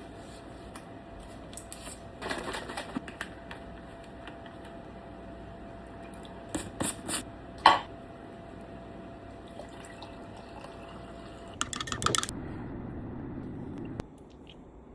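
Kitchen handling sounds: three short bursts of clicks and clattering, as of tableware being set down and moved, over a steady appliance hum that stops shortly before the end.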